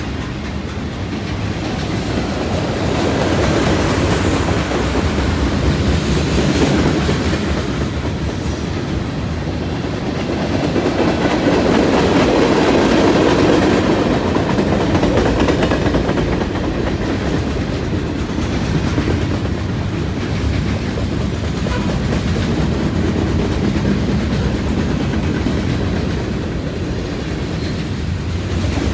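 CN freight train's cars rolling past, steel wheels clattering on the track in a continuous rumble that swells and eases twice.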